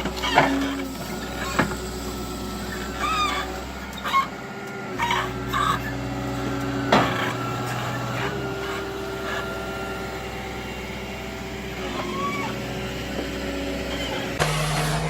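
Heavy forestry machine's engine running steadily, with a series of short squeaks and creaks over it. The sound changes abruptly near the end to a different, louder engine hum.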